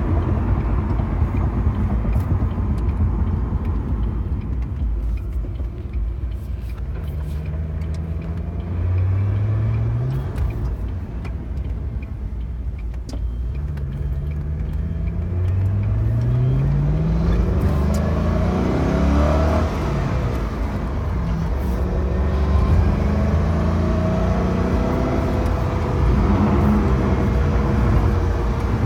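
Ford GT's supercharged 5.4-litre V8 accelerating: the engine note rises in pitch several times, dropping back at each gear change, over a steady low road rumble.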